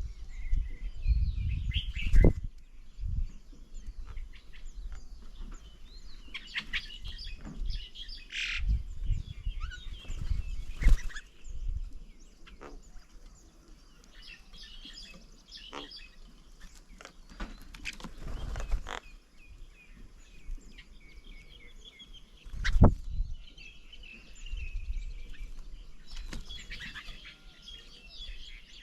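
Small birds chirping and calling at a bird table, with now and then a sharp knock or thump, loudest about two seconds in and again near the end.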